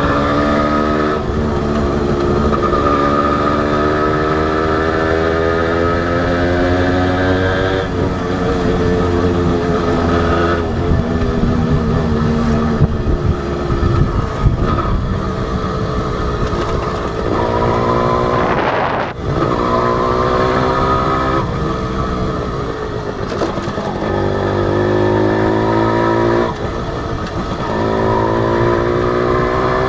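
Honda H100S two-stroke single-cylinder motorcycle engine under way, its pitch climbing as it pulls and dropping back at each gear change or throttle lift, several times over. Steady wind and road noise lie beneath.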